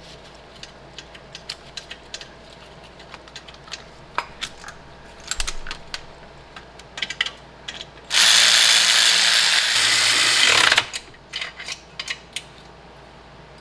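Socket ratchet clicking in short spurts while working mount bolts. About eight seconds in, a power tool runs steadily for nearly three seconds, louder than anything else, then stops, and the ratchet clicks resume.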